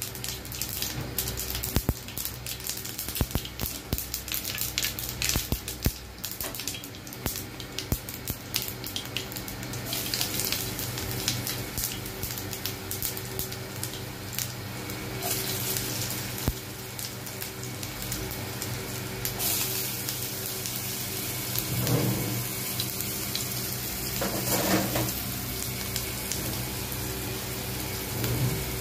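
Cumin seeds crackling and popping as they fry in a non-stick frying pan, a dense run of sharp pops for the first several seconds that settles into a steady sizzle once garlic cloves are frying with them. A steady low hum runs underneath.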